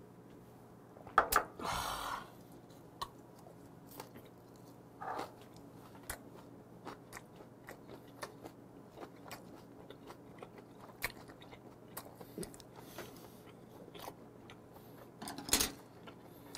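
Close-miked chewing of saury gwamegi (half-dried saury) wrapped with a scallion: many small mouth clicks and smacks, with a few louder clicks and a short breathy noise about a second or two in.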